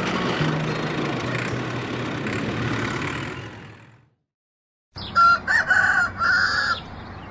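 A sound fades out, then after a moment of silence a rooster crows loudly in a few broken, pitched segments.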